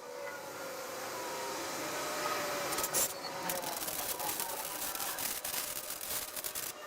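Lincoln 180 dual MIG welder laying a heavy bead on a steel exhaust X-pipe: a steady hissing arc with a burst of crackles about three seconds in.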